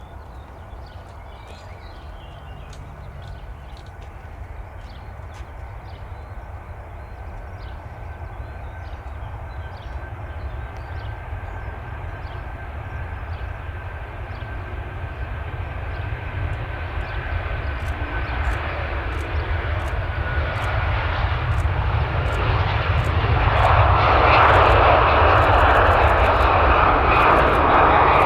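Jet airliner's engines growing steadily louder as it draws near, with a steady high whine over a broad engine noise that swells strongly in the last few seconds.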